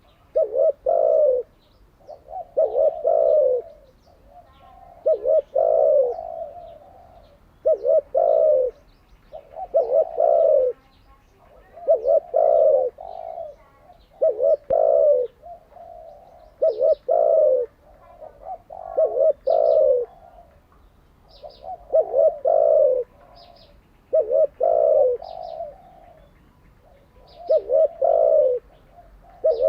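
Spotted dove cooing over and over, a low phrase of a few notes about every two seconds. From about halfway, a small bird's short, faint high chirps sound between the coos.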